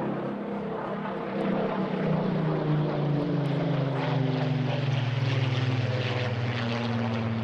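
Rolls-Royce Griffon V12 engine of a Supermarine Spitfire PR XIX flying past, its growl growing louder about a second and a half in, then falling in pitch as the aircraft goes by.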